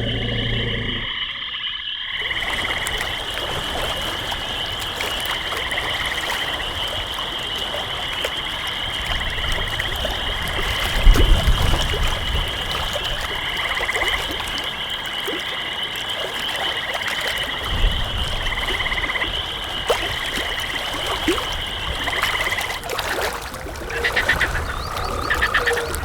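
A chorus of frogs calling: a steady high trill with a shorter croaking call repeating every couple of seconds. A low rumbling thump about eleven seconds in, and a weaker one later.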